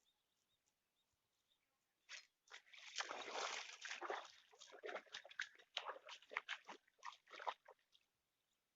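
Water splashing and sloshing in irregular bursts, starting about two seconds in and dying away near the end: a snakehead thrashing at the surface on the first strike of a frog lure.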